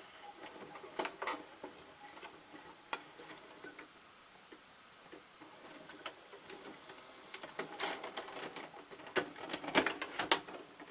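VCR fast-forwarding a repaired VHS tape: faint mechanical running with irregular clicks and ticks, which come thicker near the end.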